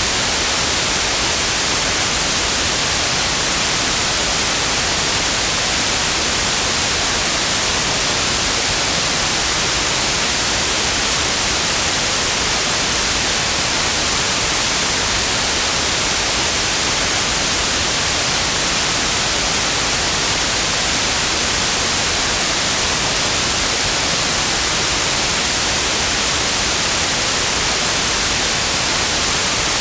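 Steady, unchanging white noise: an even hiss across the whole range, brightest in the treble.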